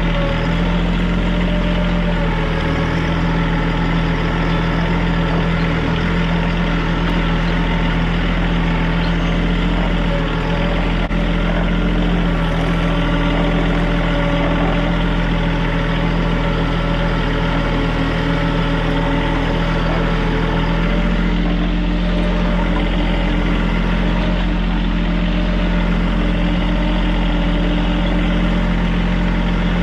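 TYM compact tractor's diesel engine running steadily, with a slight change in engine note about two-thirds of the way through.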